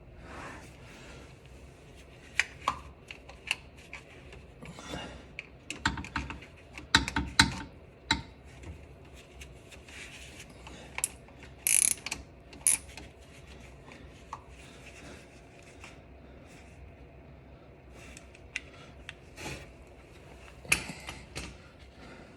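Hand tools on a car starter's wiring: scattered metallic clicks and clinks, with short runs of socket-ratchet clicking.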